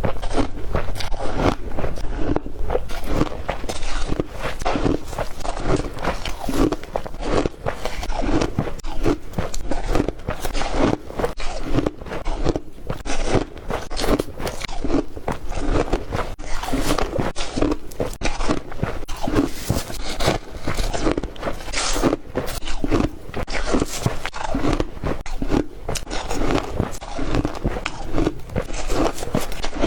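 Ice being chewed close to the microphone: a continuous run of crisp crunches as the ice is bitten and ground between the teeth.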